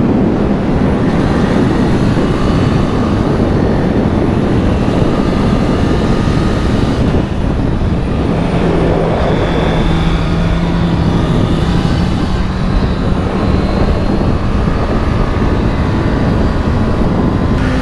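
Honda CB650R inline-four engine running steadily under way. Its pitch drops about eight seconds in, rises again around twelve seconds, and rises once more near the end.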